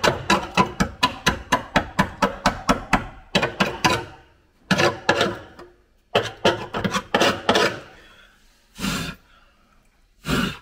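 Rapid metallic hammer taps on rusted car floor sheet metal, about five a second, giving way to several short scraping bursts and two single knocks near the end.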